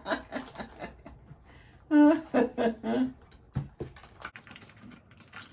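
Light clicks and taps of small items being handled while a basket is assembled, with a brief murmur from a woman's voice, the loudest sound, about two seconds in.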